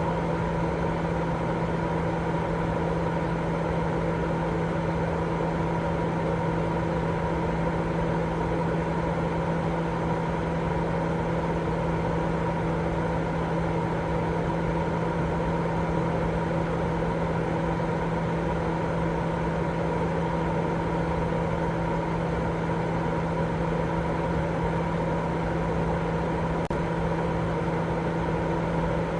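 Continuous, unchanging noise for baby sleep, with a steady low hum and faint higher tones running through it. The hiss is heaviest in the low and middle range and fades toward the top, rather than being evenly spread.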